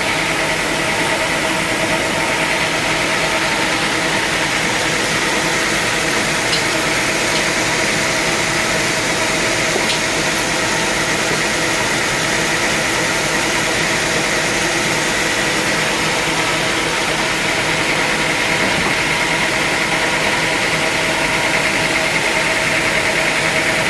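Sawmill machinery running steadily: a motor's unchanging hum under an even noise, with no cutting strokes or changes in speed.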